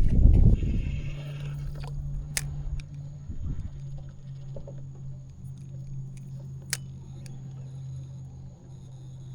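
Steady low hum of a small electric motor, stepping down slightly in pitch about three seconds in, with a few sharp clicks. Water sloshes briefly at the very start.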